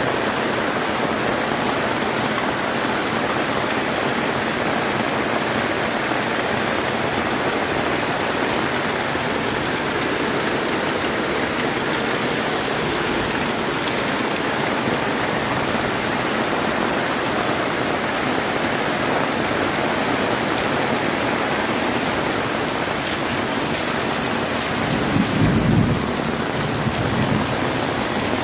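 Heavy rain pouring steadily, with a brief low rumble of thunder near the end.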